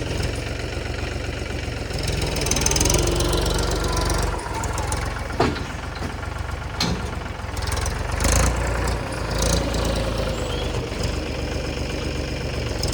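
Mahindra tractor's diesel engine running steadily, its rumble rising and falling slightly, with a few sharp knocks near the middle.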